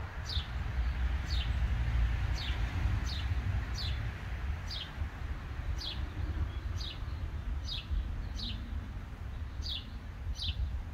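A songbird repeating a short, high, downward-sliding chirp about once a second, over a steady low rumble.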